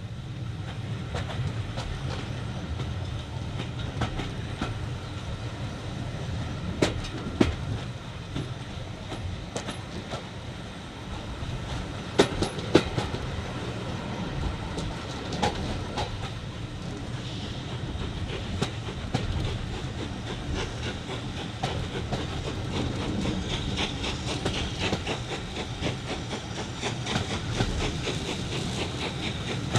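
Steam-hauled passenger train heard from a carriage window while running: a steady rumble of the coaches with the clickety-clack of wheels over rail joints and sharp clicks now and then.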